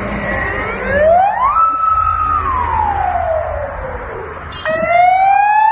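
Emergency-vehicle sirens from a passing fire-engine convoy, over the rumble of traffic. One siren wails up, holds, then slowly falls. Near the end a second siren cuts in suddenly and starts rising.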